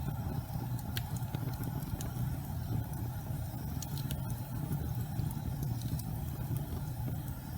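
Gas fireplace burning: a steady low rumble of the flames with a few faint, scattered crackles.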